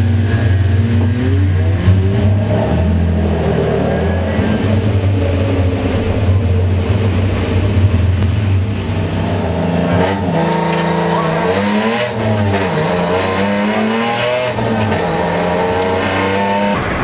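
BMW E30 rally car's engine, heard from inside the cabin: a steady low idle for the first half, then revving up and pulling away, its pitch rising and dropping several times with the gear changes.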